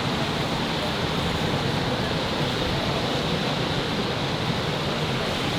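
Steady city street noise, an even wash with no distinct events.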